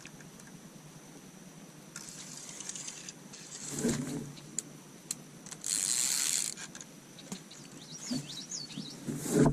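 Fishing reel and tackle being handled: ratcheting and whirring mechanical noise with scattered clicks, a louder hiss about six seconds in, and a knock near the end. A few short bird chirps come in near the end.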